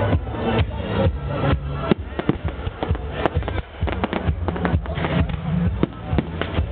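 New Year's Eve fireworks display: a dense, continuous run of bangs and crackles, some in quick clusters, with music with a steady bass playing underneath.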